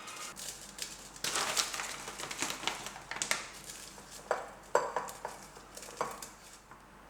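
Kitchen dishes and utensils clinking and clattering as they are handled: a quick run of sharp knocks and clinks, a few of them ringing briefly, the loudest a little under five seconds in.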